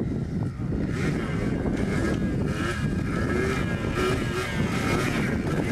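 Quad bike engine running while riding, steady with a faintly wavering pitch.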